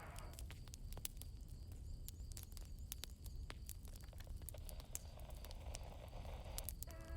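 Campfire crackling: scattered sharp pops and snaps over a low steady rumble, with soft crickets faintly behind.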